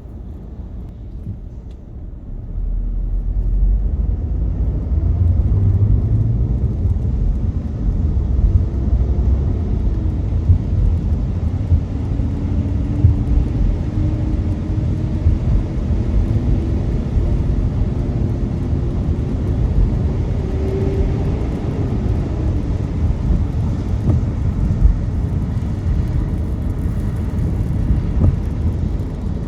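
Car driving on the road, with a steady low rumble of tyres and engine that grows louder about two seconds in as it gets moving. A faint whine rises slowly in pitch from about ten seconds to twenty as the car gathers speed, then drops away.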